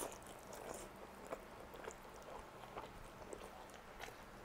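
Faint, soft chewing of a big mouthful of char siu rice noodle rolls (cheung fun), with small wet mouth clicks scattered through it.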